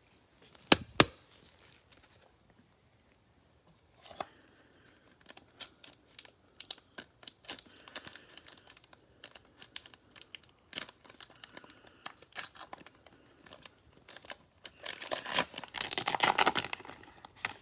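Cellophane wrapper of a Prizm football cello pack being torn open and crinkled, with two sharp clicks about a second in and a louder stretch of tearing and crinkling near the end.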